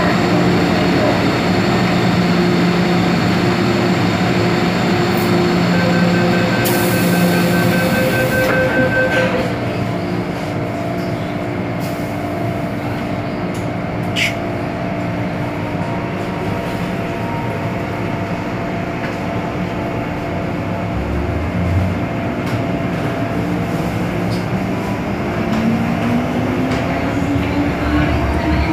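MTR M-Train electric multiple unit heard from inside the car: a steady hum while standing, with a repeated door-closing beep from about six to nine seconds in. Near the end the traction motors start a rising whine as the train pulls away.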